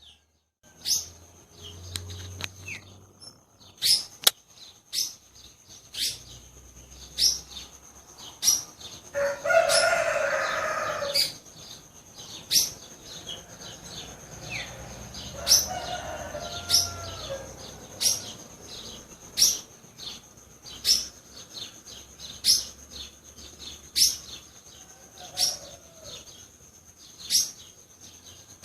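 A small bird gives one sharp chirp over and over, about one every second and a half, over a steady high-pitched buzz. A rooster crows loudly about ten seconds in.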